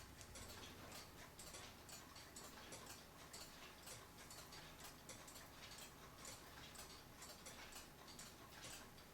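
Faint ticking of a mechanical clock escapement, a few ticks a second, over a low steady hum.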